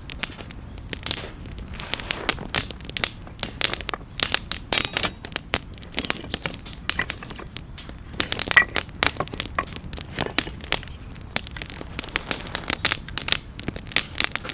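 Wood campfire crackling, with many irregular sharp pops and snaps as it burns.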